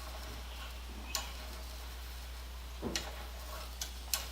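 A few short, sharp clicks at irregular intervals, one about a second in and a cluster near the end, over a steady low hum.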